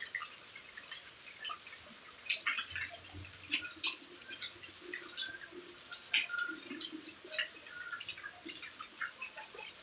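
Rain dripping beside a house: a steady scatter of irregular, separate drops, some sharper and louder than others.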